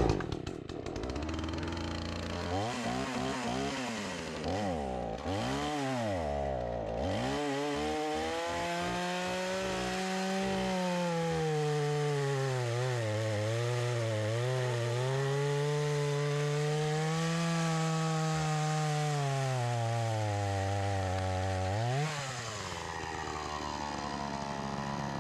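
Gas chainsaw revving up and down a few times, then running at high speed through a fallen tree trunk, its pitch sagging and recovering as the chain bites under load. Near the end the engine briefly drops in speed and revs up again.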